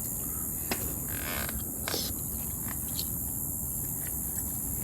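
Insects chirring in a steady, high-pitched continuous drone, with a few faint clicks and a brief rustle over it.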